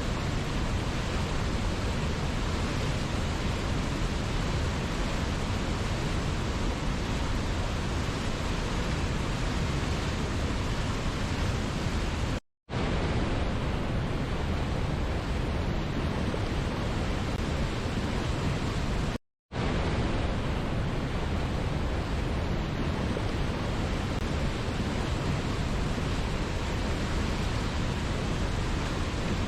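Waterfall rushing in a steady, even roar of falling water, much like pink noise. Twice, a little under halfway and about two-thirds through, the sound cuts out to complete silence for an instant before resuming.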